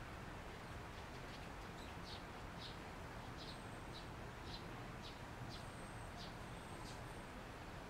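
A small bird chirping in short, high notes, repeated irregularly about once or twice a second over a faint steady hiss.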